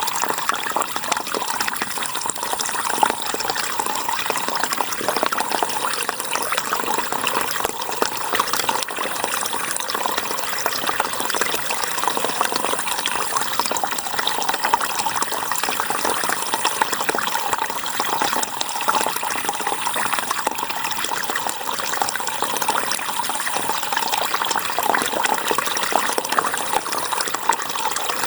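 River water flowing steadily, an even wash of running water with no let-up.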